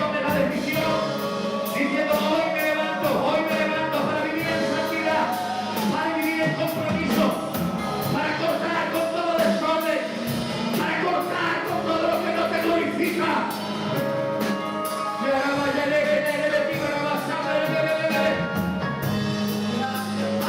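Worship song: singing over a band with a steady beat.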